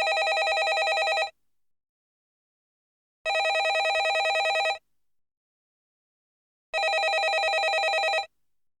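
Landline telephone ringing: three rings of about a second and a half each, with a fast trill, spaced by pauses of about two seconds.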